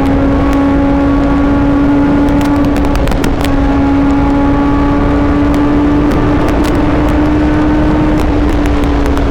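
Suzuki GSX-R750's inline-four engine running at high, steady revs while riding at speed, over heavy wind rush. The engine pitch dips briefly about three seconds in, then holds and rises slightly.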